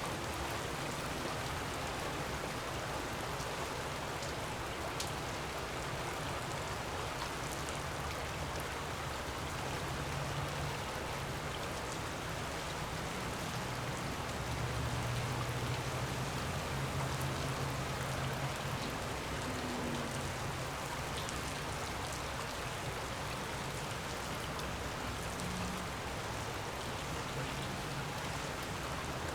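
Storm noise from wind and weather: a steady rushing hiss with shifting low rumbles and a few faint scattered ticks.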